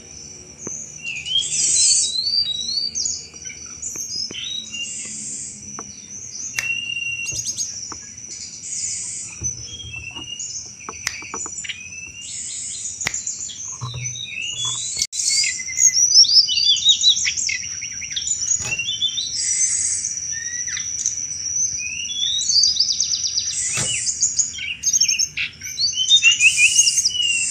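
Tledekan gunung singing a chattering 'cetrekan' song: repeated bursts of rapid high chirps and trilled phrases, one after another, over a steady high-pitched whine underneath.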